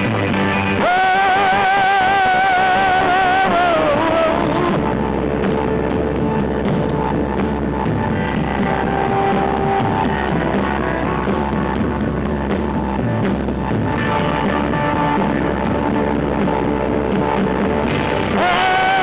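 Rock band music in a stretch without sung words, opening with a long held note with vibrato; another held note comes in near the end.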